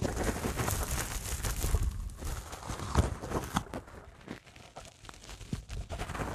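Dry sponge being worked by hand, making dense crackling, scratchy sounds. The crackle is thick for the first three and a half seconds, then thins out to scattered crackles.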